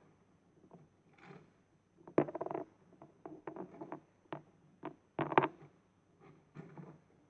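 Plastic clicks, knocks and short rattles of a Bruder toy bin truck being handled as it collects toy bins, with soft scraping in between. The loudest clatters come about two seconds in and again about five seconds in.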